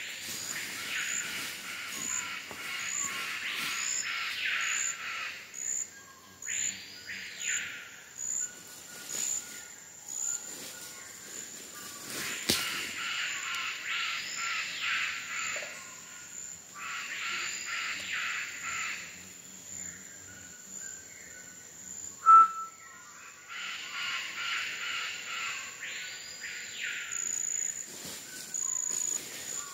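Rainforest birds calling: a song of quick whistled notes ending in two loud whistles that rise and fall, repeated about every twelve seconds, over a steady high-pitched whine. A single short, sharp, loud note stands out about two-thirds of the way through.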